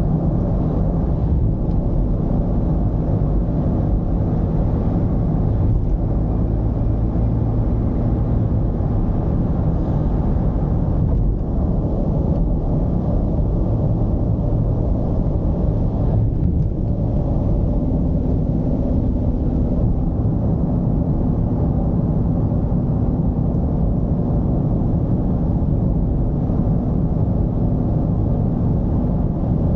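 Mercedes-Benz V220 d van's diesel engine and road noise while driving: a steady, deep drone with engine tones that shift in pitch now and then, and a new steady tone joining about eighteen seconds in.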